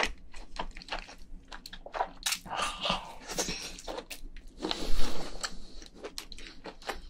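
A person chewing a mouthful of cooked giant crayfish meat, with quick wet mouth clicks throughout, loudest about five seconds in.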